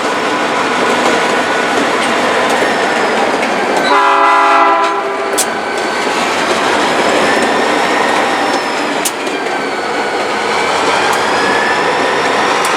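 A train rolling past with a steady rumble and wheel clatter on the rails. About four seconds in, the locomotive's horn gives a short blast of about a second.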